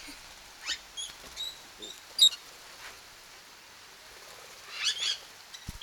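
Lovebirds chirping: short, high, squeaky chirps at irregular intervals, with a quick run of several together near the end. A brief low knock comes just before the end.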